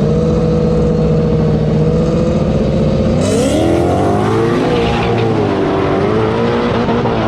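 Drag-racing street car engine held at steady high revs on the line, then launching about three seconds in with a brief burst of tyre noise, the engine pitch rising and dipping through the gear changes as it pulls away.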